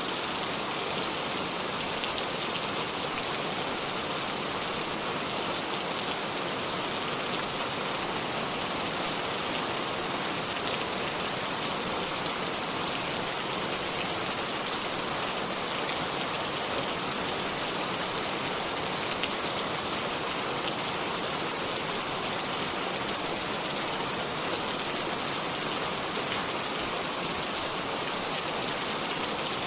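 Steady rainfall: an even hiss made of many small drop impacts, holding the same level throughout.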